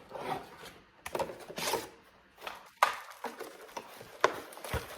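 Handling noises: rustling with a few sharp clicks and taps, and a short dull thud near the end.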